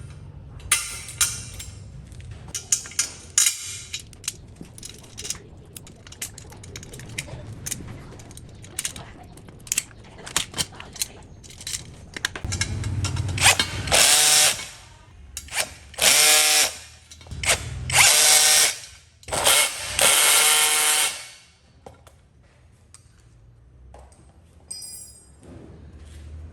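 Power drill running in about four bursts of a second or so each in the second half, after a run of sharp clicks and knocks.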